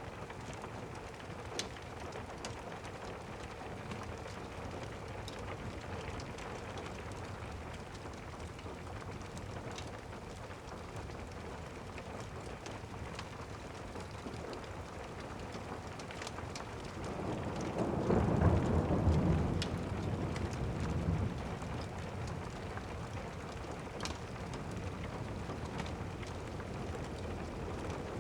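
Steady rain ambience with scattered small crackles, as of a fireplace. About 17 seconds in, a rumble of thunder swells and rolls for about four seconds, then fades back into the rain.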